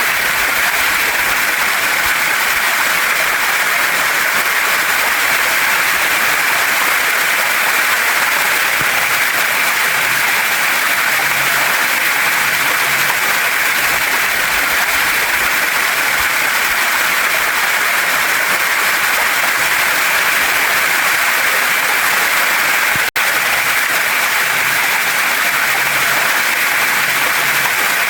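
Waterfall and stream water rushing over rocks in a steady, even hiss-like roar. It drops out for a split second about three-quarters of the way through.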